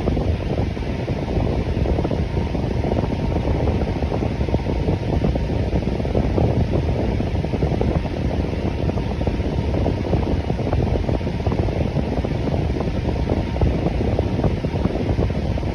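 Electric fan running steadily: an even whoosh of moving air, heaviest in the low end, with no change in speed.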